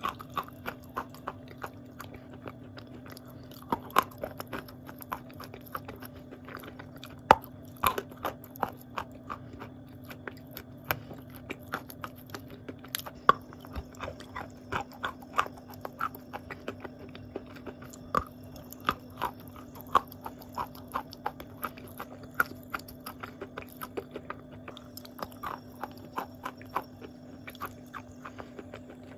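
Close-miked chewing and biting of wet blue Uzbek clay: soft, irregular crunches, several a second, over a steady low hum.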